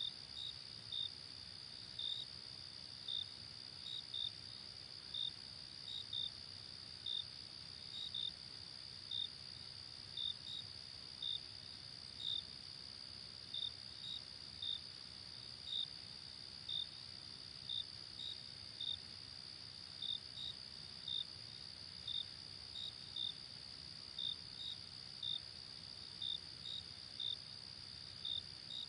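Crickets chirping: short high chirps repeating unevenly, a little more than once a second, over a steady high-pitched insect trill.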